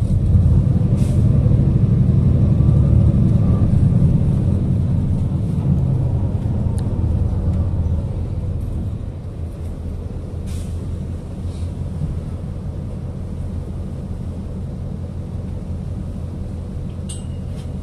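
City bus engine and road rumble heard from inside the bus, loudest for the first few seconds as it pulls hard, then easing to a steady run. A few short hisses break through.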